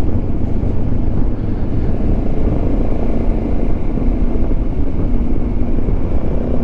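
Motorcycle running at steady road speed, with a heavy, even rush of wind noise and a faint steady engine note under it.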